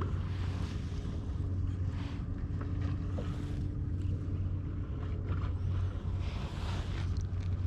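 Water washing and splashing against a kayak on the sea, swelling about every second or so, over a steady low drone, with wind on the microphone.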